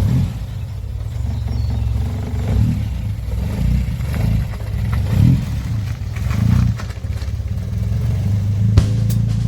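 Car engine running, with several short revs of the throttle.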